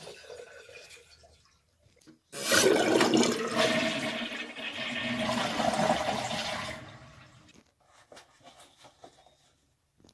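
Toilet flushing: a sudden rush of water starts about two seconds in, runs for about five seconds and then dies away.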